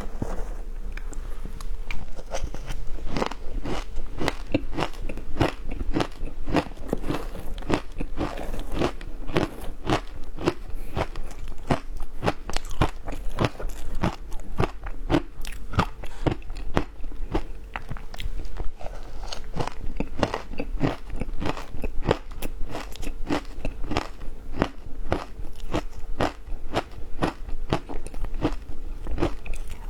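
Ice being bitten and crunched close to the microphone: a continuous run of sharp cracks and crunches, several a second, with chewing between bites.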